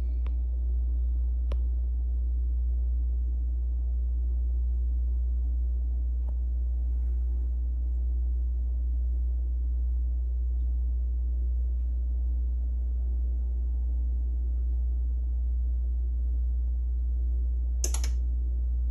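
A steady, very low hum that holds level throughout, with a few faint ticks and a short rustling noise near the end.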